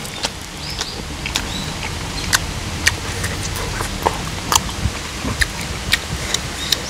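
Close-miked chewing of grilled beef: irregular wet mouth smacks and clicks. Behind it, a steady rush of flowing creek water.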